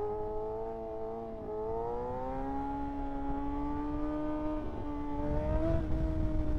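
Kawasaki ZX-6R 636 inline-four engine pulling steadily while riding, its note rising smoothly for about a second near the start and then holding level. Wind rumble on the microphone grows near the end.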